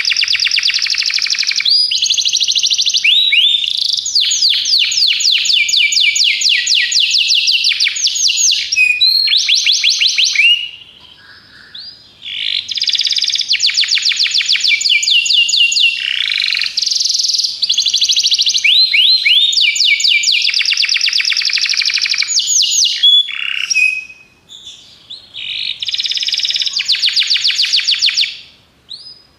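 Domestic canary singing long rolling trills of rapid, evenly repeated high notes, phrase after phrase. The song is broken by two short pauses, one about ten seconds in and one later on.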